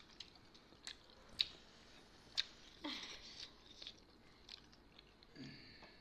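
Soft close-up eating sounds of people chewing buff momos (steamed meat dumplings), with scattered small wet clicks and smacks.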